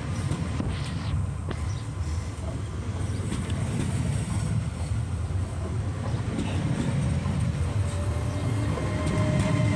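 Train running along the track: a steady low rumble of engine and wheels, with a little clickety-clack, growing louder toward the end.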